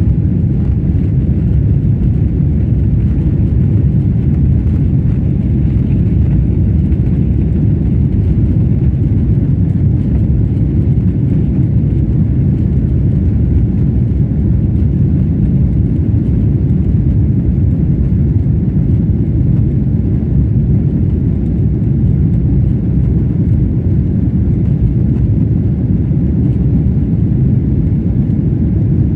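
Steady low roar of a Boeing 777-300's engines and rushing air heard from inside the cabin, the jet climbing out just after takeoff.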